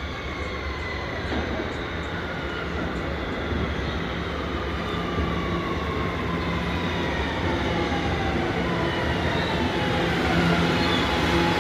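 New York City Subway R211 train approaching along the track, with a rumble that grows steadily louder. Over it, its propulsion whines with several tones that slide slowly down in pitch.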